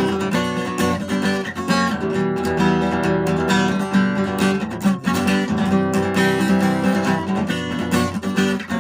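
Acoustic guitar strummed steadily, chords ringing, as the instrumental part of a song with no singing.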